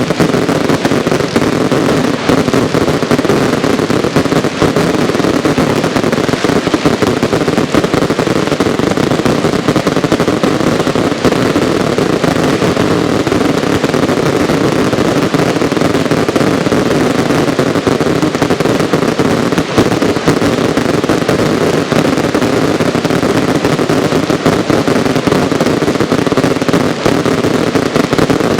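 Fireworks cakes firing in a dense, unbroken barrage of rapid bangs and crackling, typical of a display's closing finale.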